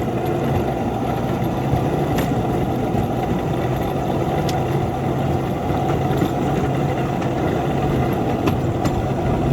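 Locomotive engine running steadily under heavy load as the plow train pushes through deep snow, barely moving. A few sharp ticks stand out over it.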